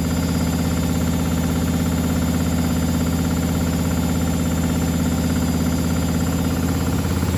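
Privileg Sensation 952 S top-loading washing machine running: a steady low motor hum with a fast, even vibration, shifting in pitch and growing louder near the end.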